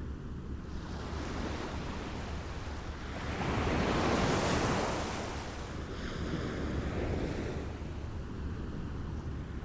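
Small waves lapping at the water's edge, one wave washing in louder about four seconds in and a smaller one a few seconds later.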